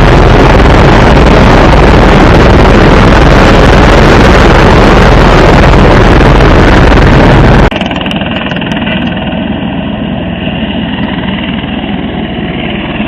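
Helicopter in flight heard from inside the cabin: loud, steady rotor and engine noise. About eight seconds in it cuts abruptly to a quieter, muffled version with a few steady whining tones.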